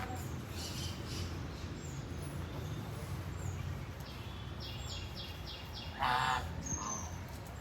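Chinese goose giving one short honk about six seconds in, over a low steady background rumble. Faint high bird chirps and a quick run of about five high ticks come shortly before it.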